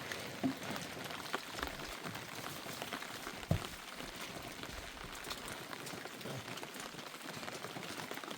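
Steady rain falling on a surface, many small drops ticking at once, with one sharper knock about three and a half seconds in.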